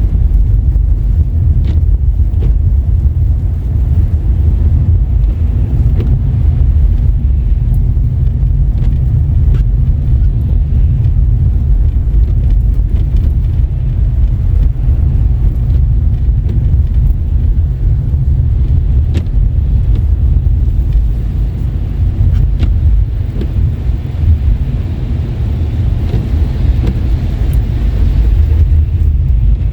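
Car driving on a wet road in rain and snow: a steady low rumble of tyre and engine noise, with a few faint scattered ticks.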